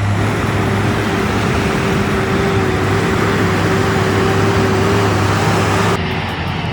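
Heavy truck engine running steadily under load, a constant drone. The sound changes abruptly about six seconds in.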